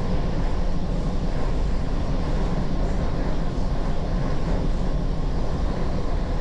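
Steady rumble of a moving train running along the track.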